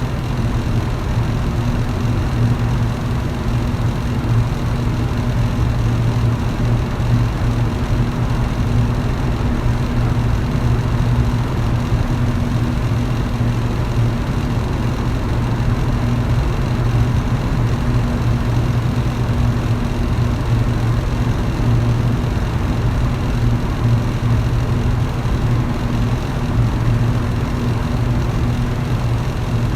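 Electric fan running at a constant speed: a steady low motor hum under an even rush of air.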